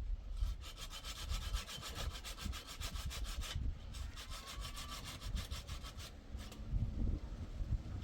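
Hand saw cutting through wood in fast, even back-and-forth strokes, pausing briefly twice.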